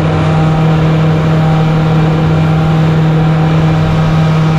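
Boat engine running at a steady pitch, with a constant drone and a rushing noise over it.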